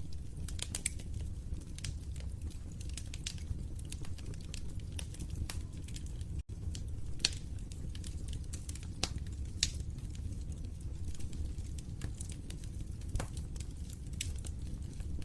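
Fireplace fire crackling: frequent sharp pops and snaps over a steady low rumble of the flames, with a momentary dropout about six and a half seconds in.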